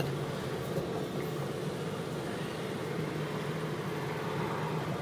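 2006 Jeep Wrangler Sport's six-cylinder engine running at low revs while the Jeep drives slowly. It is heard from inside the cabin as a steady low drone mixed with road noise.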